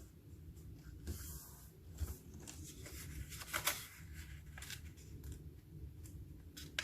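A sheet of paper being handled and folded into a paper airplane: soft rustling with several short, sharp crackles as the folds are pressed.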